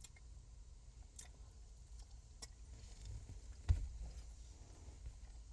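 Eating and food-handling noises: a few faint clicks and one sharp knock a little past the middle, over a low steady rumble.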